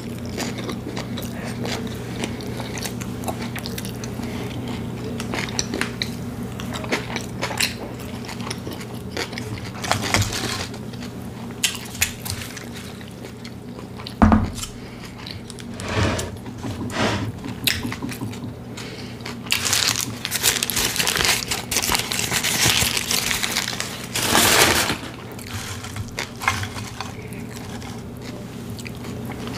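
Close-miked chewing of a sub sandwich, with wet mouth clicks and smacks. Food-handling noises follow, with a sharp thump about fourteen seconds in and rougher handling noise in the second half. A low steady hum runs underneath.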